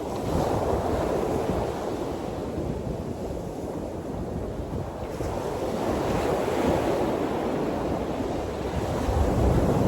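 Waves washing onto a shore, swelling and easing every few seconds, with wind buffeting the microphone.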